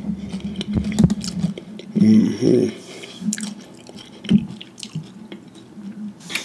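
Close-miked chewing of a Flamin' Hot Cheetos–crusted fried pickle, with crisp crunches and wet smacking. A short hum from the eater comes about two seconds in.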